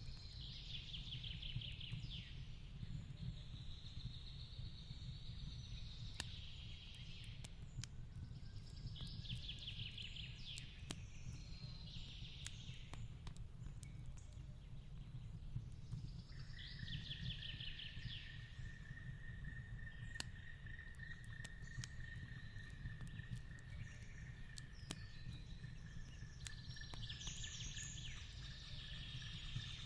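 Fireplace-and-forest ambience: the fire crackles and pops irregularly over a steady low rumble, while a bird's trilling call comes back about every eight or nine seconds. About halfway in, a steady high thin tone like an insect's drone starts up and carries on.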